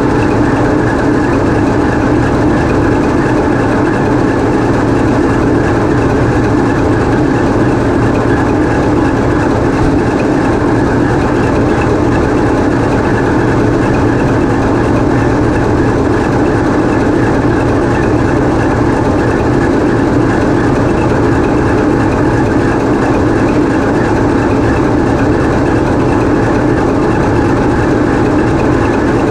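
TEP70 diesel locomotive's 16-cylinder diesel engine running steadily, heard up close inside the engine room.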